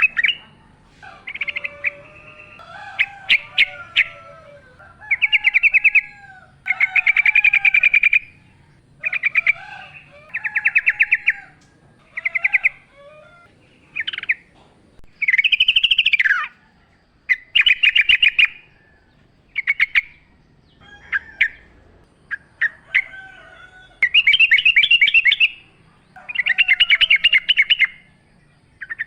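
Yellow-vented bulbul (trucukan) singing: short loud phrases of rapid chattering notes, one every second or two, with fainter, lower warbling notes between some phrases.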